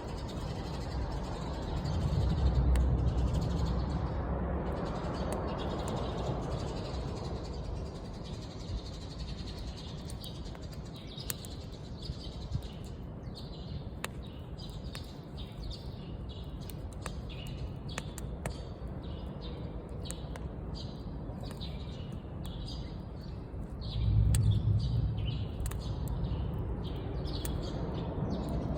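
Wood fire burning with a steady hiss and many short, sharp crackles and pops, which come more often in the second half. Twice, about two seconds in and again near the end, a low rumble swells up for a couple of seconds.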